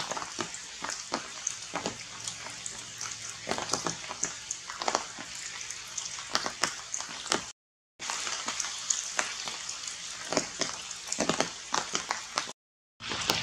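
Rain and water drops falling on leaves: a steady hiss with many irregular sharp drip ticks. The sound cuts out to dead silence twice for a moment.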